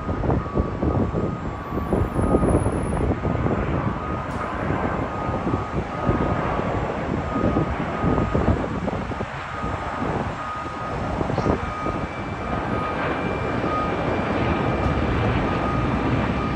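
Airbus A350's Rolls-Royce Trent XWB jet engines as the airliner comes in to land: a steady jet rumble with a thin high whine over it. A second, higher whine joins about twelve seconds in.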